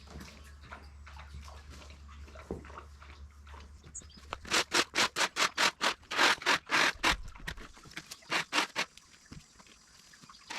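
A dog panting rapidly, close to the microphone, in a quick run of short breaths, about four or five a second, lasting roughly four seconds from near the middle.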